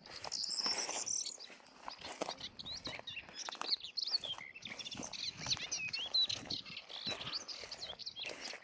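Small birds chirping and twittering in quick, high, bending notes, with a dense burst of calls in the first second or so. Footsteps on rough ground sound underneath.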